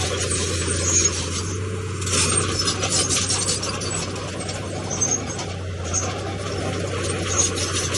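Heavy earthmoving machine's diesel engine running steadily under a continuous metallic clanking and rattling of moving steel and stone, busiest a couple of seconds in.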